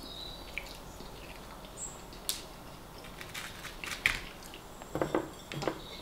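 A person chewing a mouthful of chips close to the microphone: scattered wet mouth clicks and smacks, with a few louder ones from about four seconds in.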